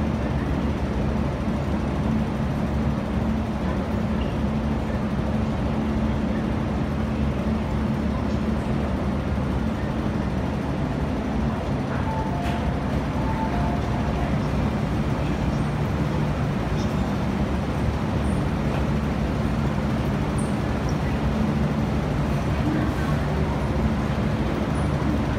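Steady low hum of an MTR Kwun Tong line train standing at the platform, holding one even drone, with a few short two-pitch tones about halfway through.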